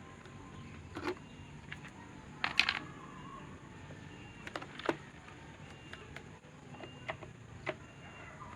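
Scattered light clicks and knocks of tools and parts being handled during work on an electric fan motor, with a quick cluster of rattling knocks about two and a half seconds in.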